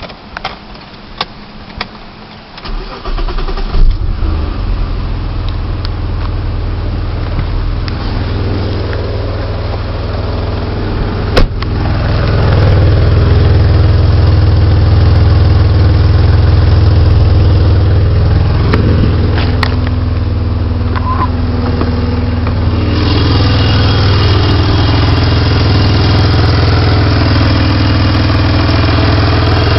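BMW E34 535i's straight-six engine cranking and catching after a few clicks about three seconds in, then idling steadily. It gets louder about twelve seconds in and brighter near the end, with a sound from around the exhaust manifold and catalytic converter that the owner suspects is an exhaust leak.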